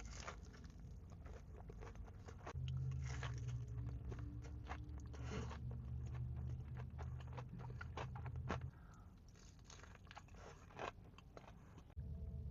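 Close-up chewing and biting into crunchy food, a dense run of crisp crunches with short pauses between. A low steady hum comes in near three seconds and stops near nine.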